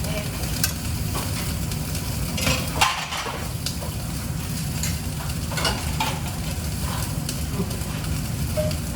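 Kitchen prep work: several short scrapes and clinks of utensils, with a steady low hum underneath.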